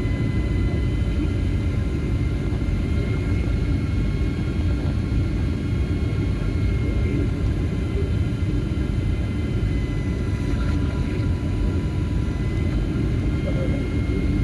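Boeing 757-200 cabin noise: a steady low rumble of engines and airflow with several faint, steady whining tones above it.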